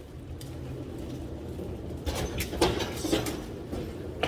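A large claw machine rolling on its wheels over pavement: a steady low rumble that builds, with a run of clattering rattles from its cabinet from about halfway through.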